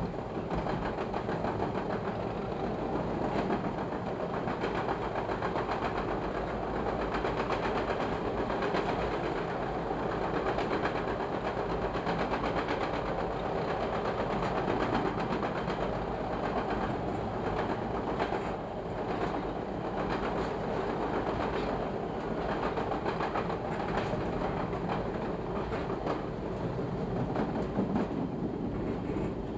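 Chicago 'L' rapid-transit train running along the tracks: a steady rumble of wheels and running gear, with scattered clicks as the wheels pass over rail joints.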